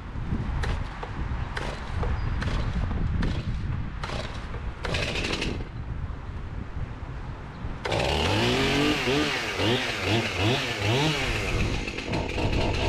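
Chainsaw engine revving in quick, repeated throttle blips, cutting in abruptly about eight seconds in. Before it there is a rushing, wind-like noise with scattered sharp knocks.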